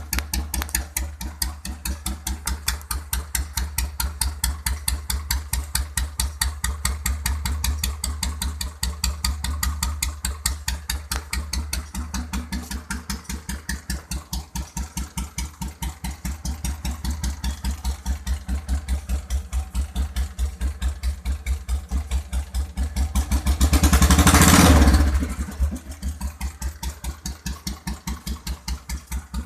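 Royal Enfield Bullet single-cylinder four-stroke engine idling with its steady, even thump, a beat the workshop calls perfect. About 24 seconds in, a louder, rougher burst lasts a second or two.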